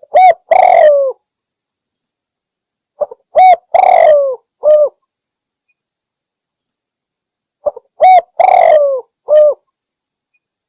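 Javan spotted dove (derkuku) cooing: three separate phrases a few seconds apart. Each is a couple of short clipped notes followed by a longer coo that falls in pitch, and the later two end with a short final note.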